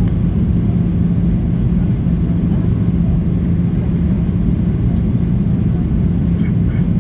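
Steady cabin drone of a Boeing 737-800 in flight: a low rumble of engine and airflow with a constant hum.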